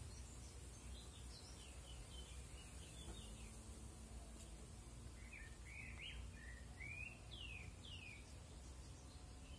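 A songbird singing faintly in two phrases of quick, sliding chirps: a short one at the start and a fuller one from about five to eight seconds in. Under it runs a low steady background rumble.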